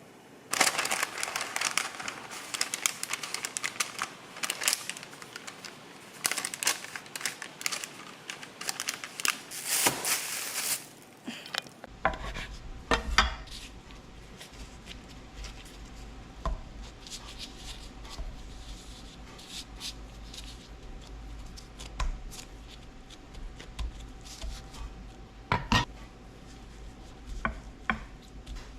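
Kitchen utensil sounds: a dense run of rapid clicking, clattering and scraping for about the first twelve seconds. Then, after a sudden change, a steady low hum with only a few scattered knocks.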